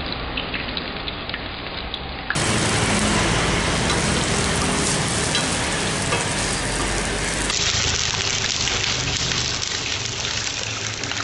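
Sliced garlic, shallots and red chilli sizzling in a little hot oil in a pan: a steady, dense crackle, a little louder after about two seconds.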